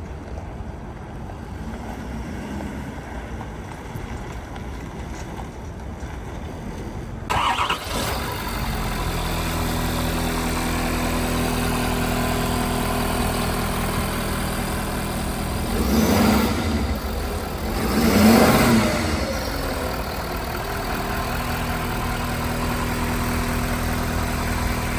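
Ford F-550 truck engine starting about seven seconds in, then idling steadily. It is revved briefly twice, then settles back to idle.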